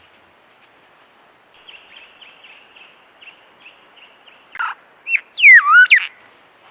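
A bird calling: a run of soft, quick chirps, then a loud call of sweeping whistled notes that glide up and down in pitch, about five seconds in.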